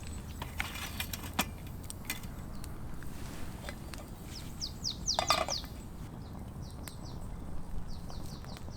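Small birds chirping outdoors: runs of short, quickly falling high notes about halfway through and again near the end, with a few sharp clicks over a steady low background rumble.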